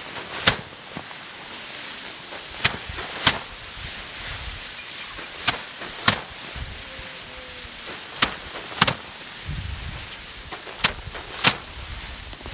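Rice sheaves being beaten by hand against a threshing board to knock the grain loose, heard as pairs of sharp strikes about every two and a half seconds.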